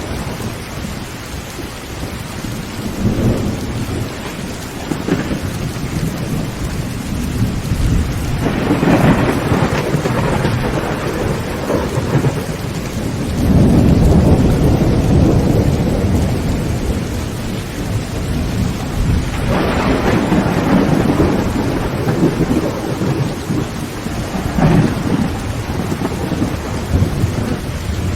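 Heavy rain falling on a tin tent roof, with thunder rumbling in several long rolls, the loudest near the middle.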